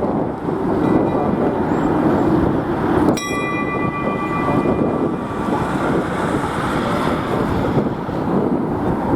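Jet airliner's engines at takeoff power: a loud, steady, dense rumble with a thin whine over it. About three seconds in there is a sudden sharp crack, after which several whining tones ring out and fade over a couple of seconds.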